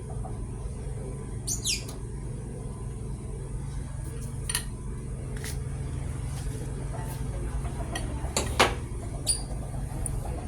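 Workshop noise: a steady low rumble with scattered sharp metallic clicks and a couple of short high falling chirps or squeaks, the loudest a sharp knock about eight and a half seconds in.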